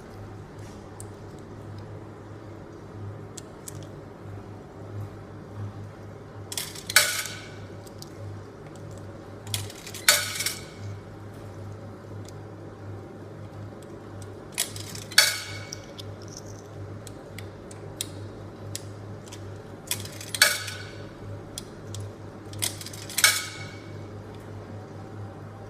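100-yen coins dropped one at a time into the coin slot of a Girbau drum washing machine: five separate ringing metallic clinks a few seconds apart, over a steady low hum.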